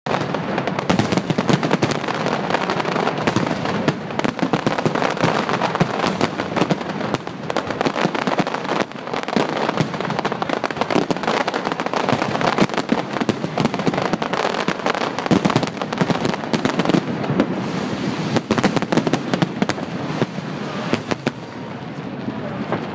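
Large fireworks display: a dense, continuous barrage of overlapping bangs and crackling bursts, thinning slightly near the end.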